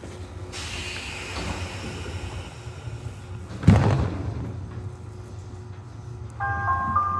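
Nishitetsu 600 series train running with a steady low rumble and a hiss, and a single loud thump about three and a half seconds in. Near the end the onboard announcement chime starts, a short bell-like melody that leads into the station announcement.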